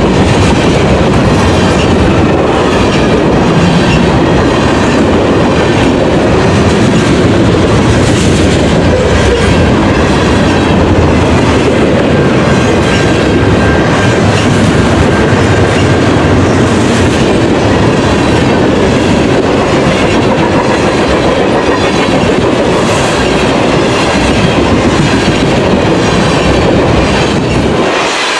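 Freight train cars rolling past close by, a steady loud rumble with wheels clacking over the rail joints. The low rumble drops away suddenly near the end.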